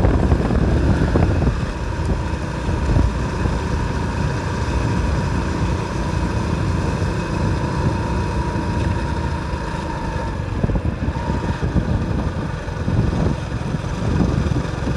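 Motorcycle engine running steadily under way, with a dense rumble of engine and road noise. A thin steady whine rides on top and stops about ten seconds in.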